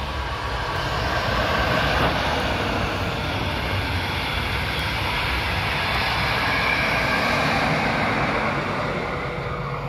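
Regional train of red double-deck coaches with a DB Class 114 electric locomotive at each end passing at speed: a steady rush of wheels on rails and air that builds over the first two seconds and fades near the end.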